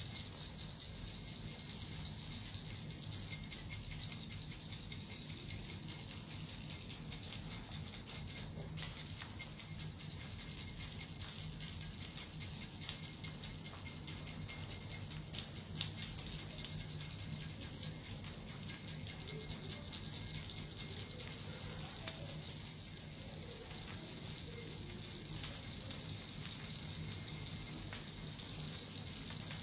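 Suzu bells and a metal rattle shaken together in a continuous jingling, dipping briefly about eight seconds in.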